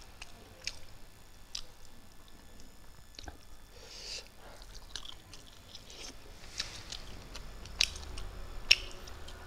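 Close-up chewing and mouth smacks while eating fried fish and rice, with fingers picking at the fish on the plate: irregular soft clicks.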